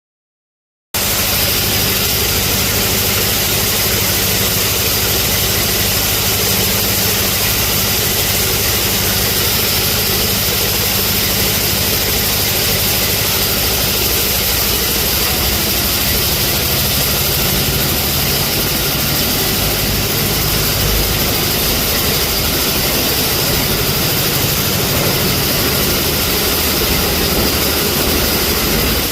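Electric local train running: a loud, steady rumble and rushing hiss with a low hum under it, cutting in about a second in.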